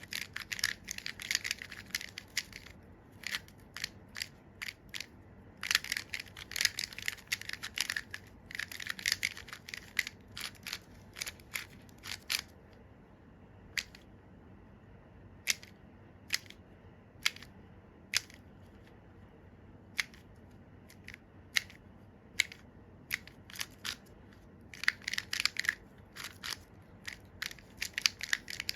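Plastic clicking of an Angstrom MGC Square-1 puzzle's layers being turned, in quick runs of rapid clicks with single clicks spaced out between them.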